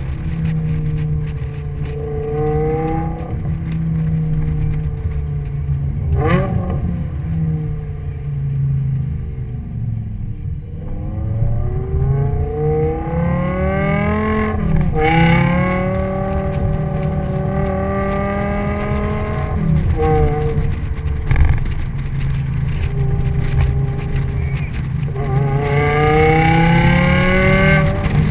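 Onboard sound of a car engine pulling through the gears. Its pitch climbs as it accelerates, about 2 s in, from about 11 to 14 s, and again near the end, and falls away at each gear change or lift-off, over a constant low rumble of road and tyre noise.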